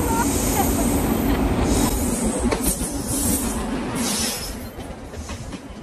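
Indian Railways WAP-7 electric locomotive hauling a passenger train in alongside the platform at close range. Its steady drone fades about four and a half seconds in as the coaches follow, with sharp wheel clicks over the rail joints near the end.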